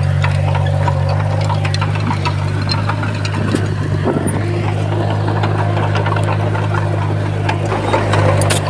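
Komatsu bulldozer's diesel engine running steadily, with scattered metallic clicks and clanks over it.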